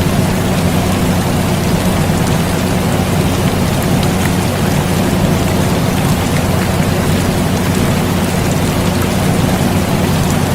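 Steady rain falling, with scattered drop ticks, over the constant low hum of an air conditioner.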